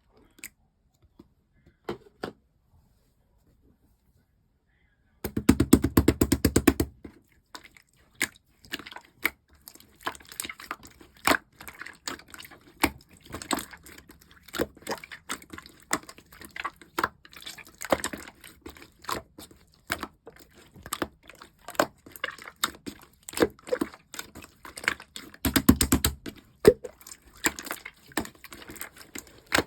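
Yellow pearl slime being kneaded and stretched by hand: dense sticky clicks and small air-pocket pops. After about five seconds of near quiet with a few clicks, two stretches of rapid popping stand out, one about five seconds in and one near the end.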